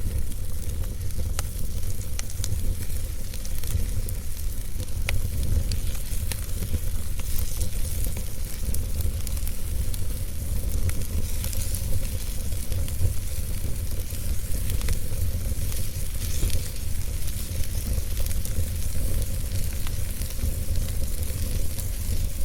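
Fire burning with a steady low rumble and hiss, broken by scattered sharp crackles and pops.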